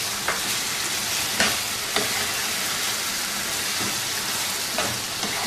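Chicken in a thick masala, cooked down until the oil has separated, sizzling in a nonstick frying pan as a silicone spatula stirs it. A few light taps and scrapes of the spatula against the pan come through the steady sizzle.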